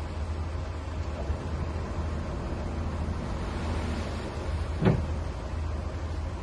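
Mini bulldozer's engine running steadily, with a single short thump about five seconds in.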